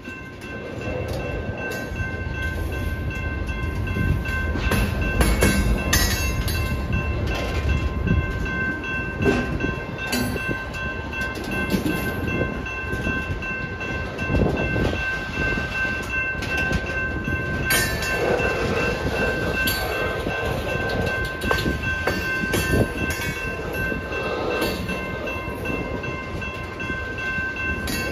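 Loaded hopper cars of a freight rock train rolling past, the wheels rumbling and clattering over the rails with scattered clanks. A steady high tone sounds under it.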